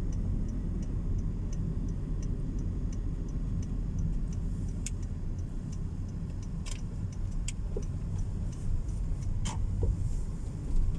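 Low, steady engine and road rumble inside a moving car's cabin, with the turn indicator ticking evenly about two and a half times a second. A few sharp clicks stand out now and then.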